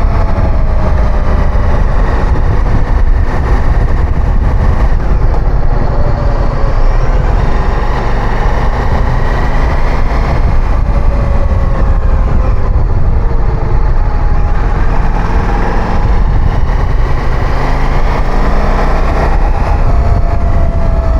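Motorcycle engine running while riding, its pitch rising and falling slowly with the throttle, over a heavy steady low rumble.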